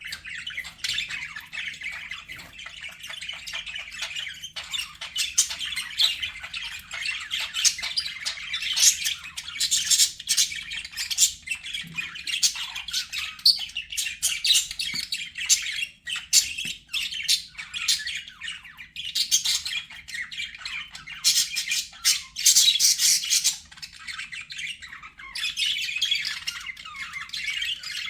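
Budgerigars chattering: a continuous warble of overlapping chirps and squawks, with louder bursts of sharp chirping every few seconds.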